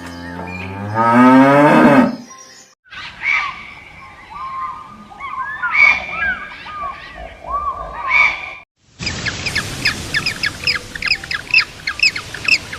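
A cow moos in one long call rising in pitch. After a cut comes a jumble of short bird calls, then, after another cut, rapid high chirps repeating about three to four times a second.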